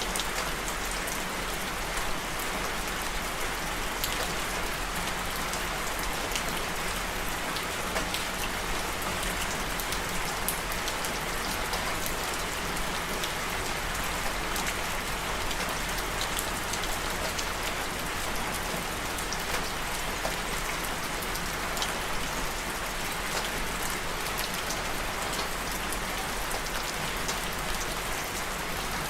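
Steady rain falling, with many small drops tapping on a surface.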